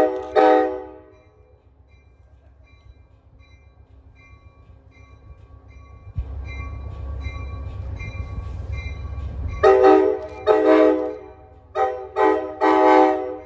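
Train horn on locomotive 6402 ending two short blasts, then the low rumble of the approaching train, then the grade-crossing signal: long, long, short, long. A crossing bell dings steadily and faintly underneath.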